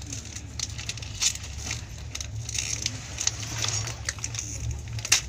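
Running noise inside a moving passenger train coach: a steady low rumble from the wheels on the track, with frequent light rattles and clicks, and a sharper click near the end.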